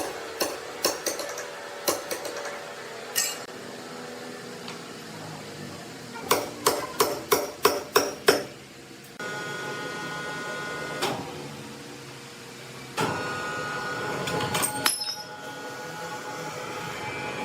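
Sharp hard knocks like hammer blows: a scattered run, then a quick run of about seven, roughly three a second. About nine seconds in, a sawmill machine starts running with a steady hum and held tones, louder from about thirteen seconds.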